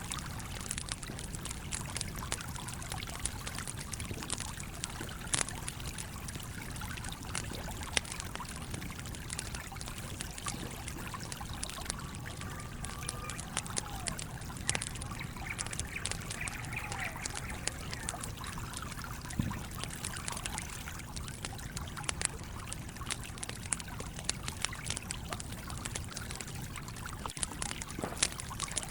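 Steady flowing and trickling of a stream, with the scattered sharp pops and crackles of a wood campfire throughout.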